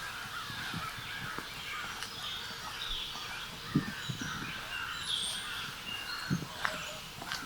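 Several wild birds calling and chattering over a soft outdoor background, with a few low footsteps on the ground.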